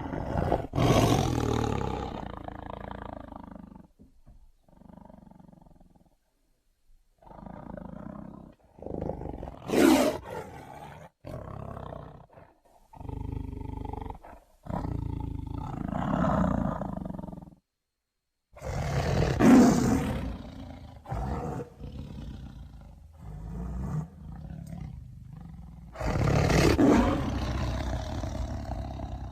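Tiger roaring and growling in a string of separate calls with short silent gaps, with loud roars about a second in, near ten seconds, near twenty seconds and near twenty-seven seconds, and lower growls between them.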